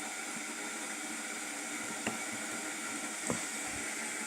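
Steady background hiss with a few light knocks about two and three seconds in.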